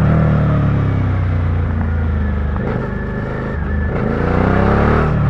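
Suzuki SV650's V-twin engine heard on board while riding: the engine note falls for the first couple of seconds as the bike slows, breaks briefly twice, then rises again under acceleration near the end.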